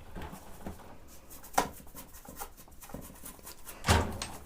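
Faint brushing and handling of a vintage sewing machine being worked with solvent in a tub, with a sharp click about one and a half seconds in and a louder knock near the end.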